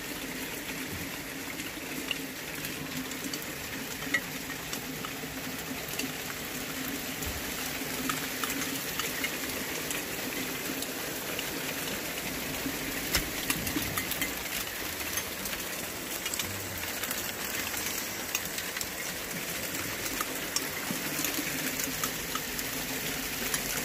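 Rain falling steadily in a downpour, with scattered sharp ticks of drops striking now and then.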